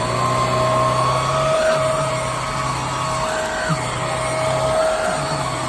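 Hoover WindTunnel Air Steerable upright vacuum cleaner's motor running steadily at full speed, just after being switched on, with its pitch wavering slightly a few times.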